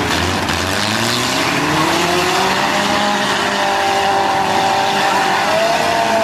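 Demolition derby cars' engines running hard at high revs, several at once: one climbs in pitch over a couple of seconds, and another swings up and back down near the end.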